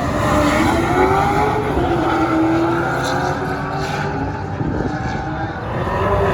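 A drift car's V8 engine running hard at high revs, its pitch rising and falling.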